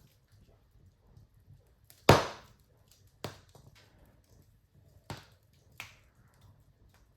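Wood fire in a fireplace crackling, with one loud pop about two seconds in and three smaller pops after it.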